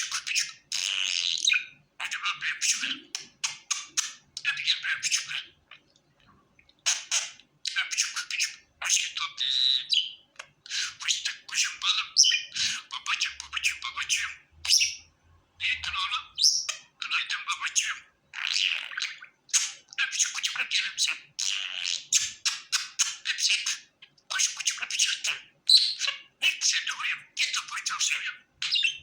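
Pet budgerigar chattering and warbling in rapid high-pitched bursts with short pauses, with a brief lull about six seconds in.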